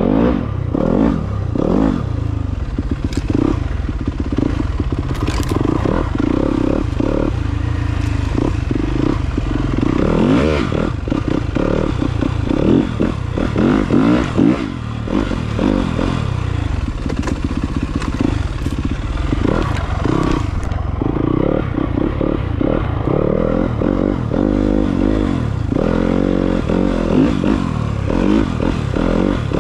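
Dirt bike engine running on an off-road ride, its pitch rising and falling again and again as the throttle is opened and closed through the gears, with rattling mixed in.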